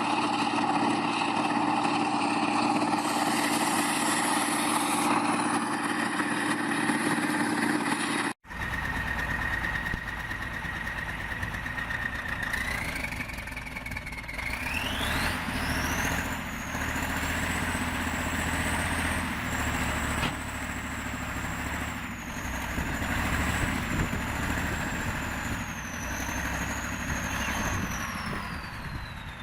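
Vehicle engines running. The first is cut off sharply by a hard edit. The second carries a high whine that holds, then rises steeply and stays high before sinking near the end.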